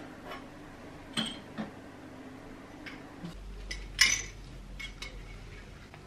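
Several light clinks and knocks of ceramic cups and crockery, the loudest about four seconds in, over a low steady hum.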